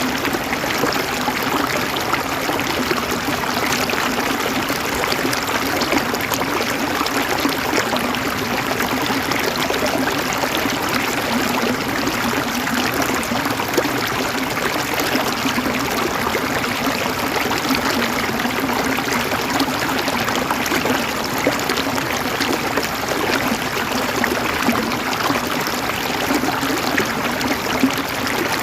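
River water flowing and gurgling over rocks, a steady rush with small splashes throughout.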